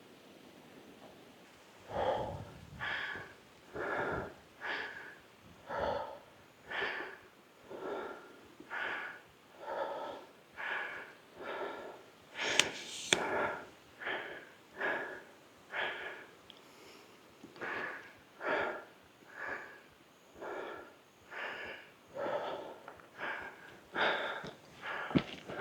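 A person breathing hard from the exertion of walking, one heavy breath about every second, with a brief sharp click about halfway through.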